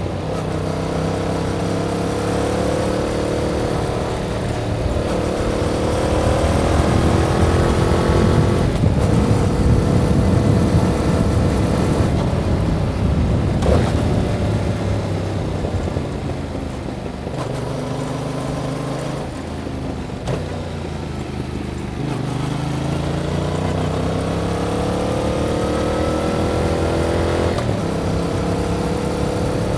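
Yamaha MT-07's 689 cc parallel-twin engine through its stock exhaust, pulling up through the gears with rising pitch and a drop at each shift. Partway through it holds a steady speed under wind rush, eases off to a lower steady note, then pulls again with rising pitch and another shift near the end.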